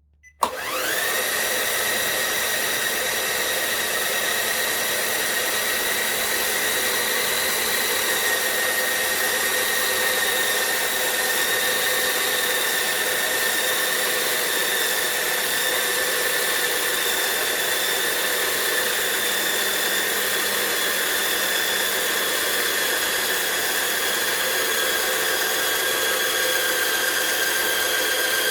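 CaDA M motor, a third-party LEGO Power Functions-compatible electric motor, starting up with a quick rising whine and then running steadily with a high, even whine. Its pitch sinks slightly over the run.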